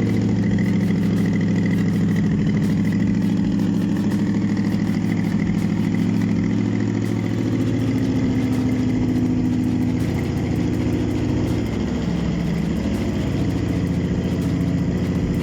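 Nissan VQ35 V6 engine idling steadily on a test stand, run to check the condition of the used engine.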